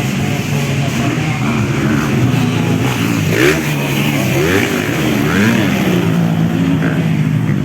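Several 250 cc motocross bikes racing, their engines revving up and down over one another. The pitch rises and falls as the bikes accelerate and pass.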